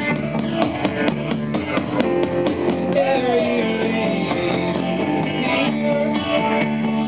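Live band playing an instrumental passage between sung lines, led by strummed guitar in a steady rhythm. A melodic line slides up and then down in pitch about three seconds in.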